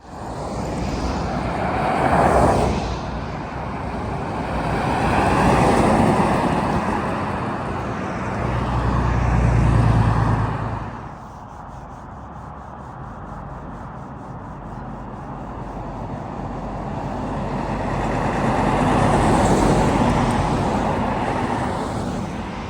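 Road traffic passing by, trucks among it: vehicles go by one after another, swelling and fading about two, six and ten seconds in and again near twenty seconds. A deep engine drone lies under the pass at about ten seconds.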